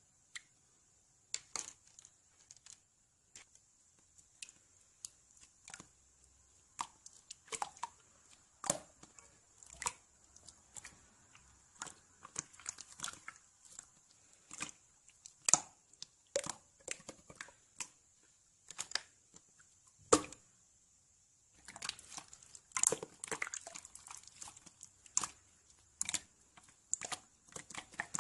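Irregular crinkling and tearing handling noises broken by many sharp clicks, coming in uneven bursts with a short quiet gap late on.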